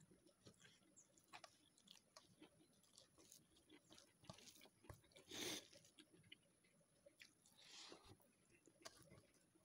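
Faint close-up eating sounds: a person chewing rice with fried beans and eggplant, with soft wet mouth clicks and fingers squishing cooked rice on a steel plate. A short, louder rush of noise stands out a little past halfway.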